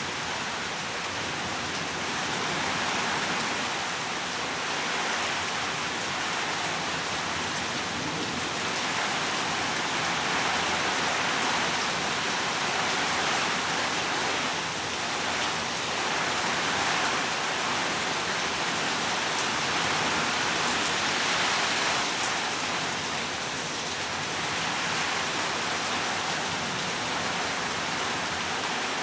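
Heavy rain pouring steadily, swelling and easing a little as it goes.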